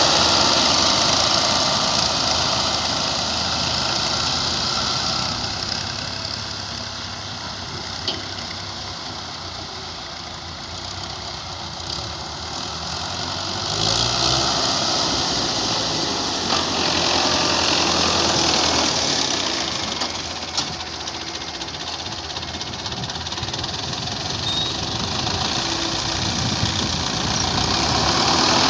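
Diesel engines of heavy earthmoving machinery running, rising and falling in loudness, with a few short sharp clanks.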